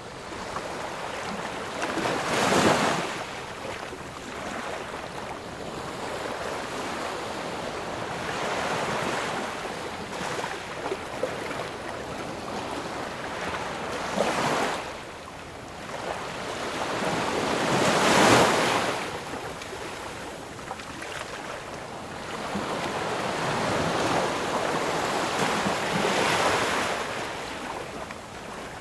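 Sea surf: waves breaking and washing up on the shore in slow swells, with the loudest breaks about two and a half seconds in and again about eighteen seconds in.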